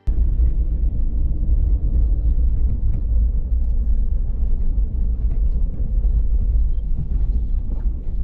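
A vehicle driving: a steady, loud low rumble that starts abruptly.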